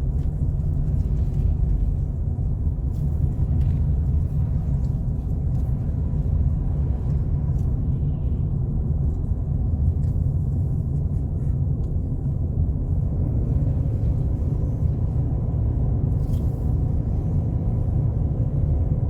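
Steady low rumble of a car's engine and tyres on a snowy, slushy road, heard from inside the cabin. About two-thirds of the way in, a steady higher engine note joins the rumble as the driver downshifts to a lower gear, using engine braking instead of the brakes on the slick road.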